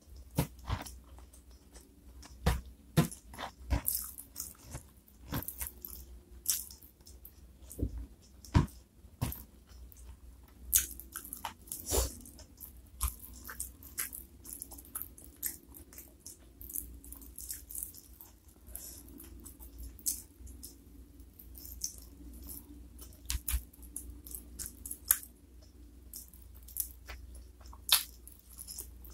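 Close-miked chewing and biting of crispy fried chicken, with irregular sharp crunches.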